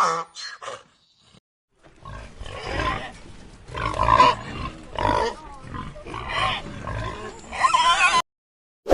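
An animal calling in a run of repeated rough, grunting calls, starting about two seconds in and stopping abruptly near the end.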